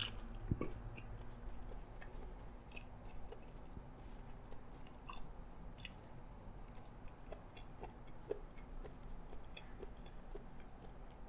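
A person chewing a mouthful of yee sang, the raw fish salad with shredded vegetables and crisp crackers, faintly, with small scattered clicks.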